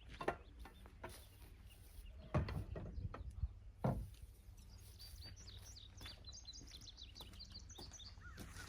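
Small birds chirping in quick high twitters, busiest in the second half. A few sharp knocks and clunks in the first four seconds are the loudest sounds.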